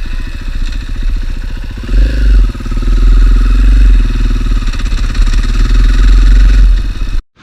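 Single-cylinder dual-sport motorcycle engine running under way, getting louder about two seconds in as the bike pulls harder, then cutting off suddenly near the end.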